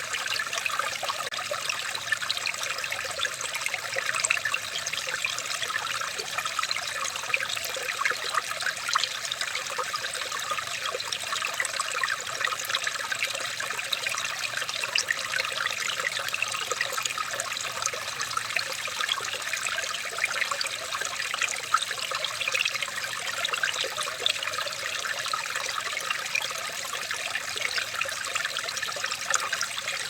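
Water trickling and splashing steadily like a small stream, an unbroken rush full of tiny bright splashes with no pauses.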